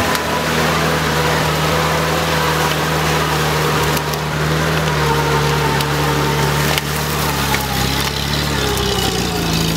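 UAZ off-roader's engine running steadily under load as it drives through mud and dry reeds, its note dipping near the end. A few sharp cracks sound over it, about four seconds in and again near seven seconds.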